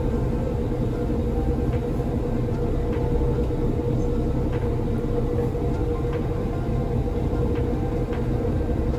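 Passenger ferry's engine running steadily at slow harbour speed, heard on board: a deep continuous rumble with a steady hum over it and faint regular ticks.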